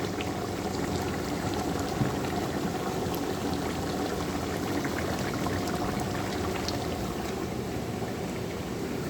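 A pot of chicken biryani boiling on the fire, giving a steady, even noise with a few faint ticks.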